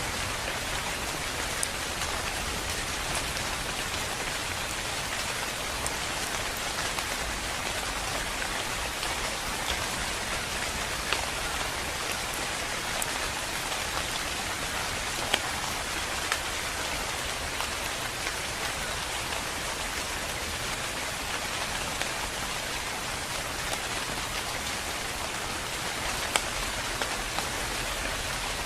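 Steady rain falling, with scattered louder drops ticking on a surface now and then.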